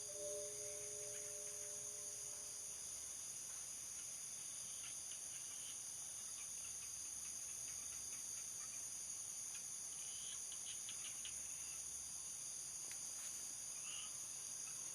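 Crickets chirring steadily in a continuous high-pitched night chorus, with a faint low hum that fades out about two seconds in.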